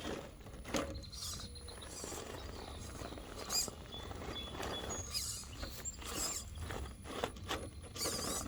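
Scale RC rock crawler's electric motor and gearbox whining in short, repeated bursts as it is driven up a steep rocky climb.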